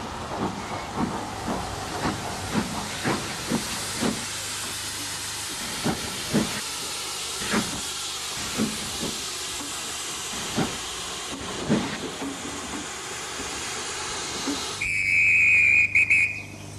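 Steam locomotive sound of a model King Arthur class engine pulling away: a steady hiss of steam with slow, uneven chuffs about once or twice a second, then a loud steam whistle blast near the end.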